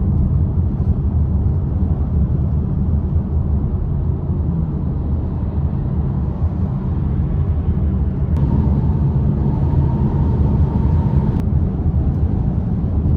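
Steady wind and road rumble heard inside the cabin of a Polestar 2 electric car at highway speed, the wind noise loud because of a hard-shell rooftop tent on the roof racks. A faint steady whistle joins about eight seconds in.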